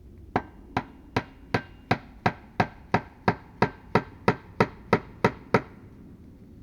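A hand tool striking repeatedly: about fifteen quick, evenly spaced blows, some three a second, each with a brief ring, stopping before the end.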